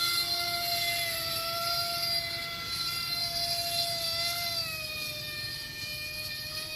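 Electric motor and propeller of a radio-controlled Icon A5 model seaplane whining in flight. The steady tone dips a little in pitch about two-thirds of the way through and fades gradually.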